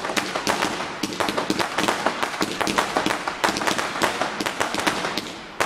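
Fireworks going off in a rapid, irregular string of sharp cracks and pops, several every second, easing briefly just before the end.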